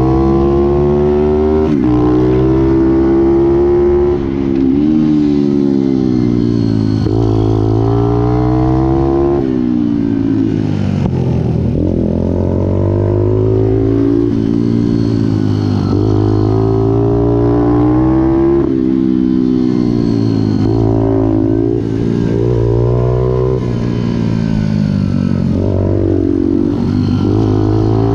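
Pit bike's single-cylinder four-stroke engine running hard, its pitch climbing under throttle and dropping off again every two to three seconds as it is ridden around the track.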